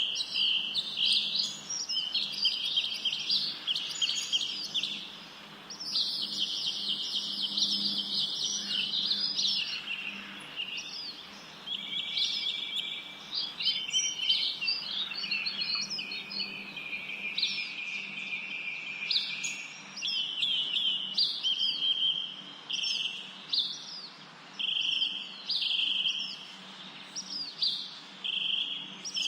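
Several songbirds singing at once, a continuous mix of rapid trills, chirps and short whistled notes in quick succession, with only brief pauses.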